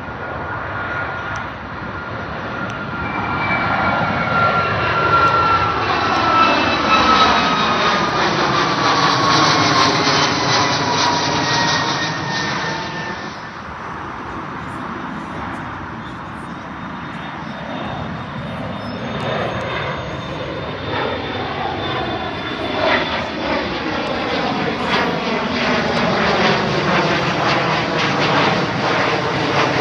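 Jet airliner passing low overhead at full takeoff power: the engine whine drops in pitch as it goes by, over a loud, sweeping jet noise. The noise eases about halfway through, and a second departing jet builds up loudly toward the end.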